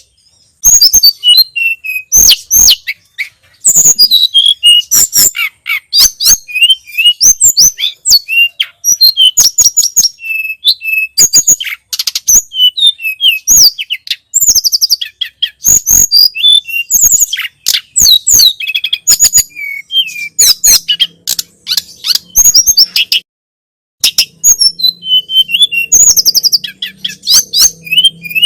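Tledekan gunung (sulingan gunung) singing a loud, rapid stream of high chirps and short whistled phrases, broken by a pause of about a second near the end. A faint low hum lies under the song in its last part.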